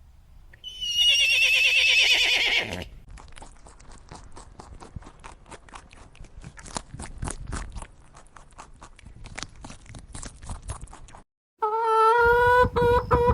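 A horse whinnies once, a shrill, quavering call lasting about two seconds, then a long run of quieter, irregular clicks and taps. After a brief silence near the end, a rooster starts to crow.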